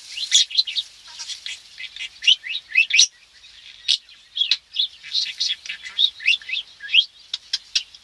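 Pet budgerigar chattering and warbling non-stop: a busy run of quick chirps, short rising squeaks and little clicks.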